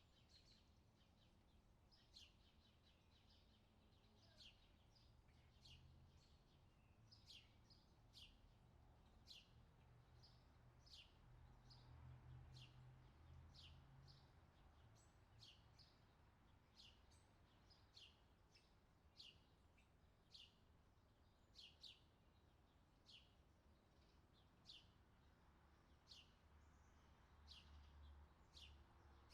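Faint bird chirping: short, steeply falling chirps repeated about once or twice a second, over a faint low hum.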